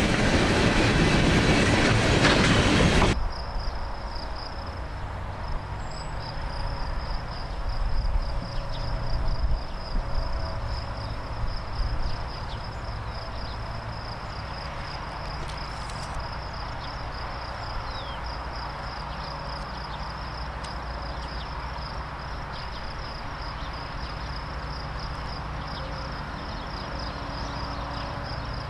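A freight train rolling past, its wheels clacking over the rail joints, cuts off suddenly about three seconds in. A quieter scene follows: insects trilling steadily over a low hum, with a few louder swells in the first half.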